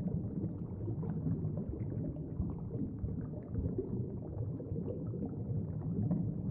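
Steady low, bubbling rumble of a background ambience in the manner of underwater sound, with no clear beat or melody.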